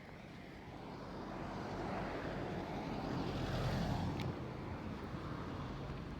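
A motor vehicle passing by: its engine and road noise swell slowly to a peak about four seconds in, then ease off.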